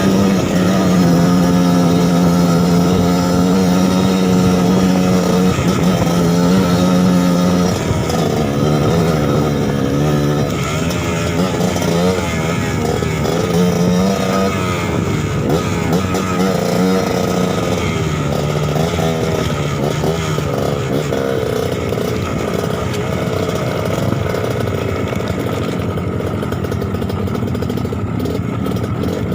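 Trail motorcycle engine running, held at a steady pitch for the first several seconds, then revving up and down repeatedly through the middle, settling steadier near the end.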